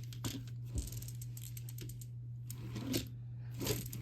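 Scattered light clicks and rattles of plastic Lego pieces being handled, over a steady low hum.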